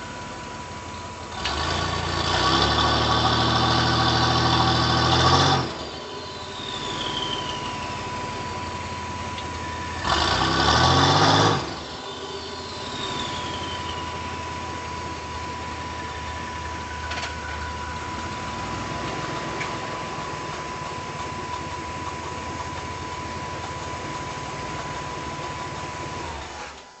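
GMC Syclone's turbocharged 4.3-litre V6 idling through a 3-inch mandrel-bent exhaust with a Dynomax muffler. It is revved twice, a longer rev about two seconds in and a short one about ten seconds in, and each rev is followed by a falling whistle as the engine drops back to idle.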